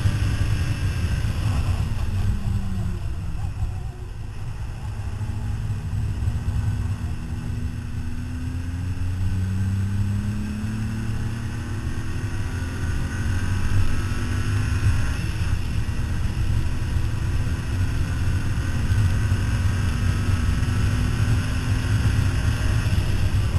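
A race car's engine running hard on track, heard with road and wind noise. The pitch climbs slowly over several seconds and drops back a few times as the car speeds up and slows, over a steady low rumble.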